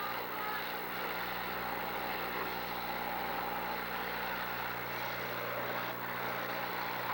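Demolition derby cars' engines running together as a steady, even mass of engine noise, with no distinct crashes, over a constant low electrical hum.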